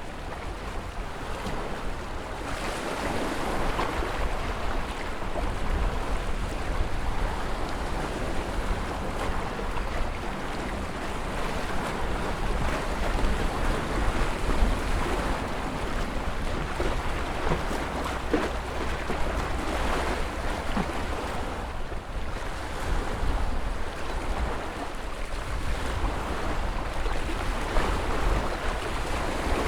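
Ocean surf: waves washing and breaking continuously over a steady low rumble, the wash swelling and easing every several seconds.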